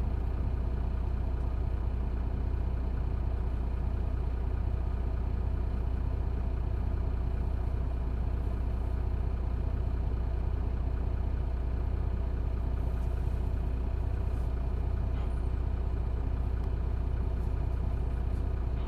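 Isuzu Erga city bus's six-cylinder diesel engine running steadily at a constant pitch, with no revving or change in speed.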